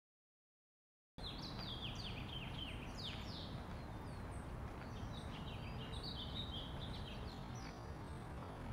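Outdoor field sound with small birds chirping in quick series of short falling notes over a steady low rumble; it cuts in abruptly after about a second of dead silence.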